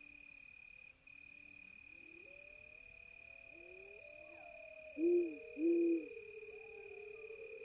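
An owl hoots twice in quick succession about five seconds in, the loudest sound. Beneath it, wolves howl far off in long, gliding, overlapping calls, over a steady high-pitched cricket chirring.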